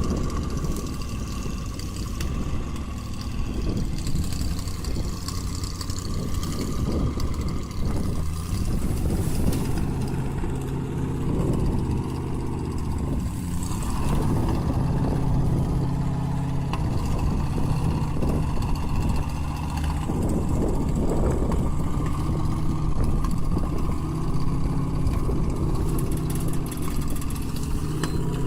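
A large vehicle's engine running steadily, a deep hum that swells and eases.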